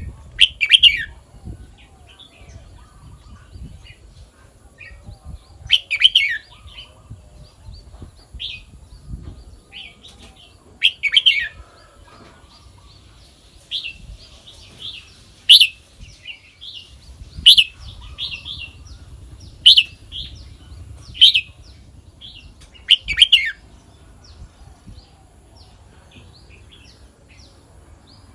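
Red-whiskered bulbul singing: about eight short, loud, warbled phrases a few seconds apart, with softer chirps in between.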